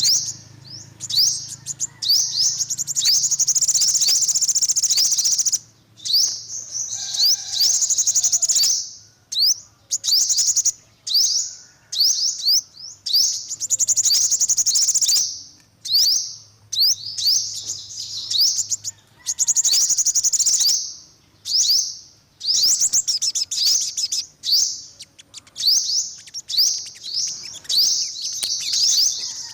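Sunbird song: bursts of rapid, high-pitched twittering trills, each lasting one to three seconds, repeated with short pauses in between.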